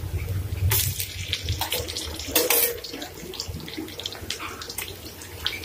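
Sliced onions frying in oil in an aluminium pot, a steady sizzle, with two louder hisses about a second in and again halfway through as ginger-garlic paste goes into the hot oil.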